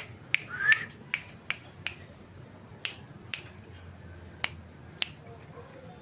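A series of about ten sharp, separate clicks at irregular intervals, with a short rising chirp a little under a second in.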